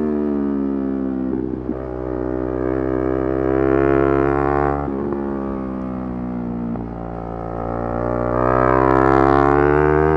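Yamaha R3's parallel-twin engine revving hard: its pitch climbs under acceleration, drops sharply at a shift or throttle change about five seconds in, then climbs again near the end.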